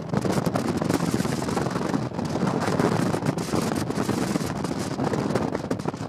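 Strong wind blowing across the microphone: a loud, continuous rushing rumble broken by constant crackling buffets.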